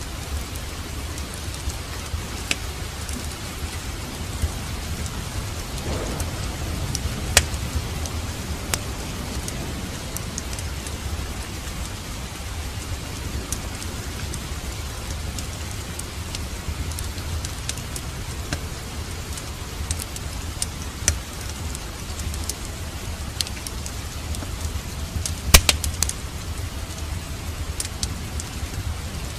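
Steady rain with a low rumble under it, and a wood fire in a fireplace crackling with scattered sharp pops, a small cluster of louder ones about three-quarters of the way in.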